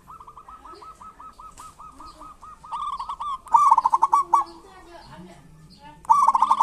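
Zebra doves (perkutut) calling. A run of quick, evenly spaced rattling notes, then loud, rapid chattering bursts about three and a half seconds in and again near the end.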